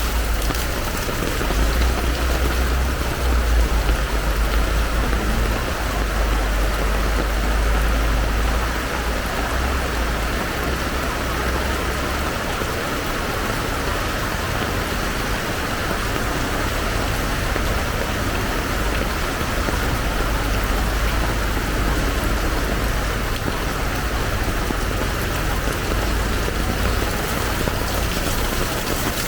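Heavy rain pouring steadily in an even hiss. A low rumble sits under it for the first several seconds and then eases.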